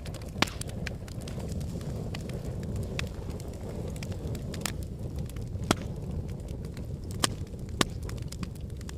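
Logs burning in a fireplace: a steady low rumble of flames with sharp crackles and pops at irregular moments, the loudest pops coming once early and three times in the second half.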